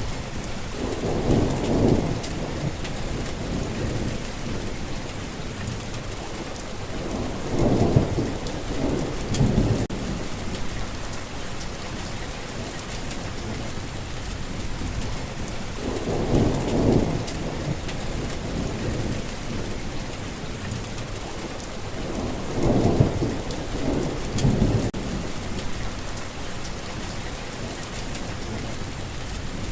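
Steady rain falling, a continuous hiss of drops, with low rumbles of thunder swelling up about six times, each lasting a second or two.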